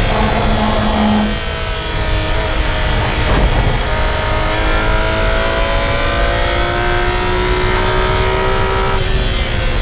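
BMW E46 M3's S54 straight-six at high revs, heard from inside the cabin over road and tyre noise. The pitch dips briefly about a second in as the throttle comes off, then climbs steadily under full throttle, and it falls away about nine seconds in as the driver lifts for the next corner.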